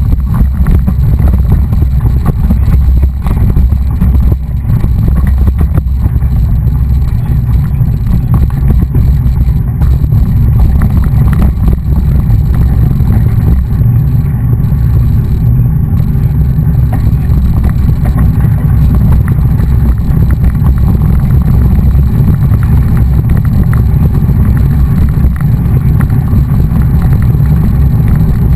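Steady, loud low rumble of wind buffeting the microphone of a camera carried while riding a mountain bike.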